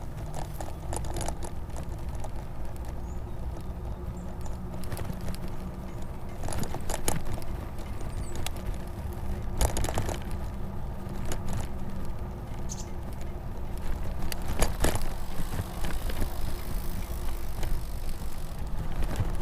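Electric bike riding over a rough surface: a steady low rumble of tyres and wind, broken by scattered clicks and rattles from the bike itself. The Bafang BBSHD mid-drive motor and chain make no audible hum of their own.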